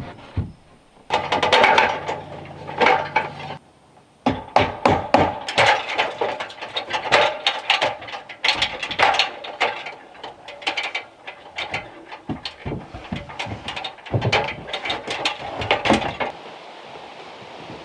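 Building work with wood and tools: many quick, irregular knocks and clatters of timber and hand tools, with a short low hum between about one and three and a half seconds in.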